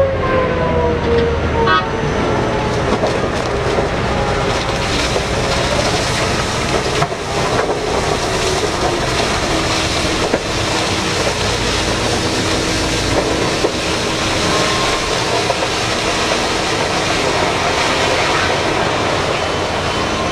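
BelAZ 75710 diesel-electric mining dump truck running loud and steady. A whine falls in pitch over the first couple of seconds, and a faint steady tone comes in midway.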